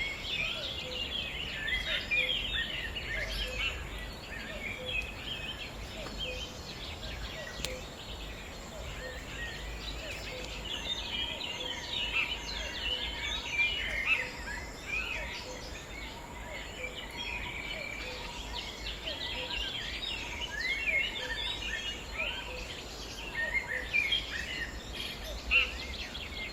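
Many birds chirping and calling at once in short, quick notes that overlap, over a faint low rumble.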